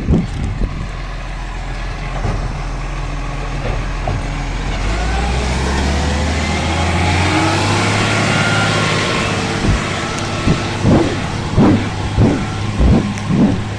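Garbage truck's diesel engine running, then revving higher about five seconds in with a broad hiss over the top, followed near the end by a quick series of sharp knocks, about two a second.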